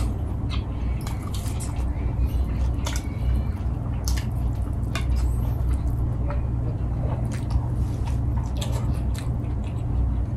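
Close-up wet eating sounds: squishy chewing and lip smacks of rice eaten by hand, with many small scattered clicks, over a steady low hum.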